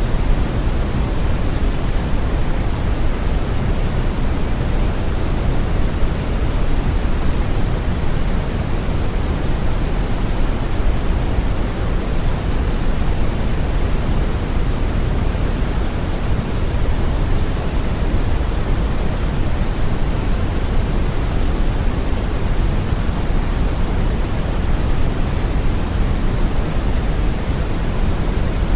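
Steady synthetic brown noise: an even, deep rushing hiss, strongest in the low end, with no changes.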